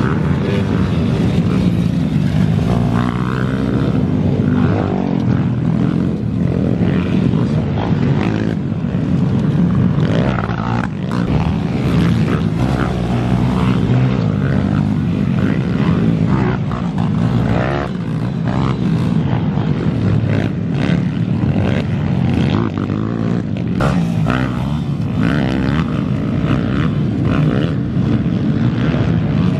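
Minibike engines running during a race: a loud, continuous engine buzz.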